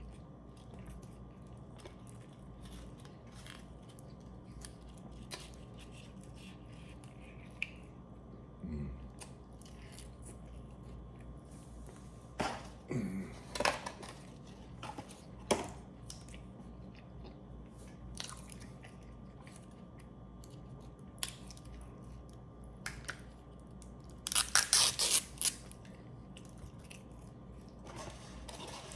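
A person chewing and biting into food close to the microphone, with scattered wet mouth clicks and smacks. A louder, rustly burst comes near the end.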